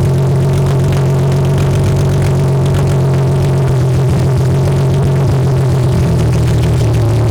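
BMW E30's swapped S52 inline-six running on open headers, a loud steady drone at constant engine speed while driving.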